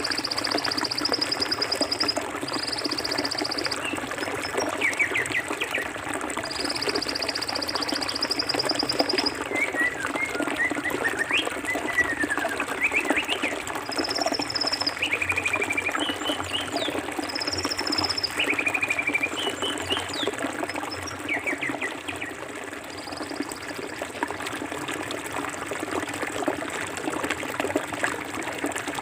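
Forest stream flowing steadily over rocks, with birds chirping over it and a high, rapidly pulsed trill coming in several times, mostly in the first third.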